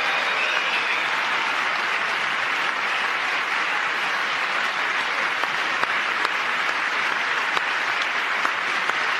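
Large audience applauding steadily: a dense wash of clapping, with a few sharper single claps standing out.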